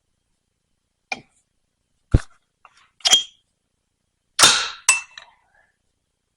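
Snap-ring pliers and steel parts clicking and clinking against the vane pump's housing while the snap ring holding the shaft bearing is worked out. There are about half a dozen separate sharp, slightly ringing clinks; the loudest and longest comes about four and a half seconds in.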